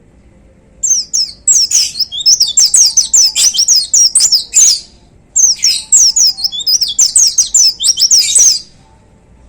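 A pleci (white-eye) singing two long bursts of fast, high chattering song, each a quick run of short notes that slide downward. The bursts are separated by a brief pause.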